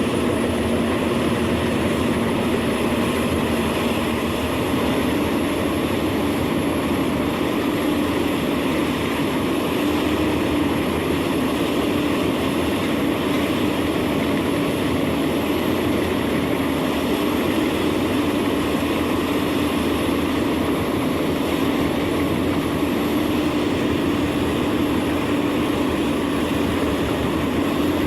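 Large industrial wood chipper running continuously under load: a steady, dense machine drone with a low hum that steps up slightly in pitch about five seconds in, and a faint high whine.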